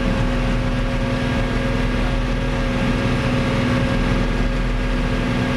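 Fiat 110-90 tractor's diesel engine running steadily under way, an even hum with no misses: the tractor is going perfectly.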